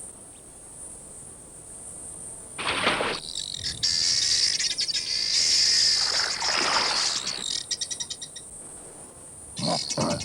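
Insects buzzing and chirping: a loud high steady buzz through the middle, then a fast pulsing cricket-like trill near the end. Two brief swishes cut in, one about three seconds in and one in the middle.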